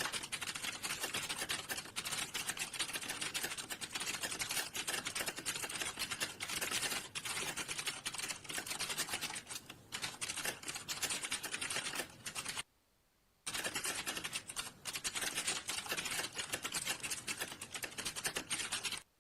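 Fast, continuous typing on a computer keyboard: a dense run of key clicks, with a short pause a little past halfway, stopping abruptly at the end.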